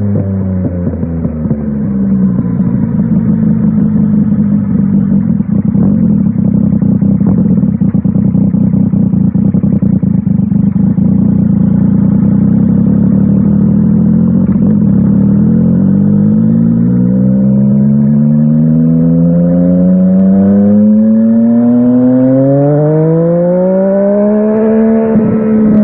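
Yamaha Tracer 900 GT's inline-three engine through an aftermarket WR Authentic exhaust, heard while riding. The revs fall at the start, hold low and steady with a rough pulsing for several seconds, then rise steadily as the bike accelerates through the last ten seconds.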